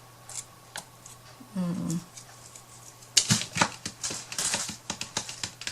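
Small hard craft pieces being handled on a tabletop: a few isolated clicks, then a quick run of sharp taps and clicks from about three seconds in. A short hum of a voice comes about a second and a half in.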